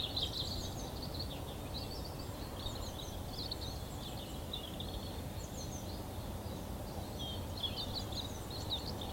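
Wild birds singing: quick, high twittering phrases that come and go in bursts of song, over a steady low rumble of outdoor background noise.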